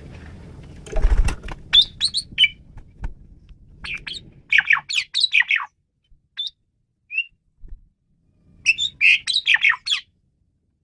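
Asian pied starling (jalak suren) singing in three bursts of quick, squawky chattering phrases with whistled notes, and a couple of lone calls between them. A low rumble with a thump about a second in sits under the first burst.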